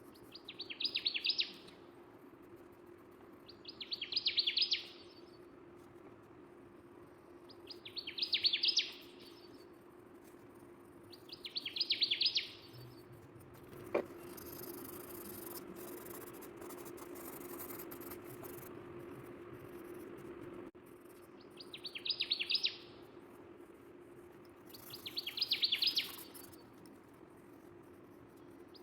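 A bird's short rapid chirping trill, repeated six times at intervals of three to four seconds with a longer pause mid-way, over a steady low hum. A single sharp click comes about halfway through.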